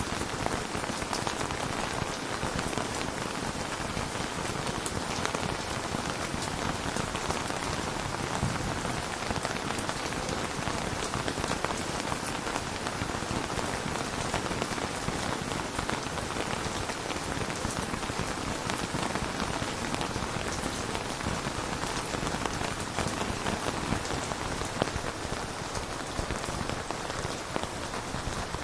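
Steady rain falling on a hard surface, an even hiss dotted with many small drop ticks.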